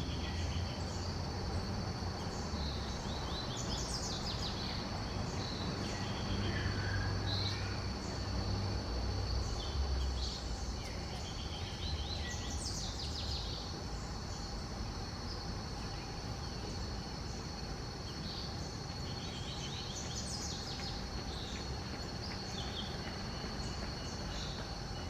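Wild birds calling over a steady high insect drone. About three times a bird gives a short run of notes falling in pitch, with scattered chirps between, and a low background rumble runs throughout.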